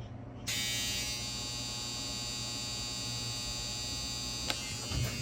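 A GE dishwasher's pump motor switches on about half a second in and runs with a steady electric buzz as the machine is reset out of its test mode. There is a short click near the end.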